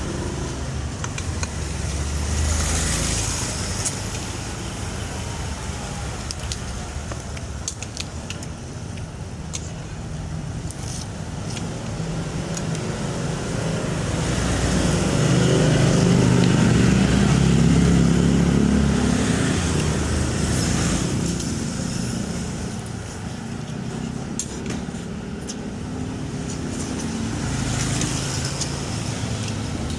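Road traffic going past, the sound swelling and fading as vehicles pass, with the loudest pass about halfway through.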